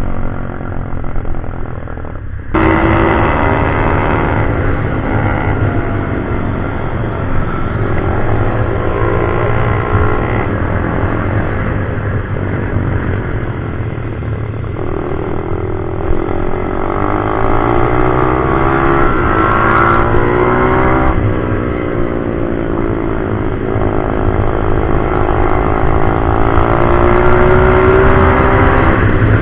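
Pit bike's small single-cylinder engine revving hard and easing off again and again as it runs a track, its pitch climbing and dropping through the gears, over a steady low rumble.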